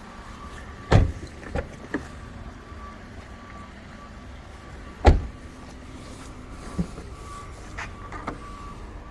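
Car doors being shut: two heavy thumps about four seconds apart, with lighter knocks and clicks between them.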